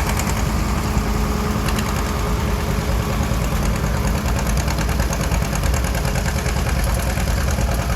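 Two-cylinder John Deere A tractor engine running steadily with an even, rapid beat.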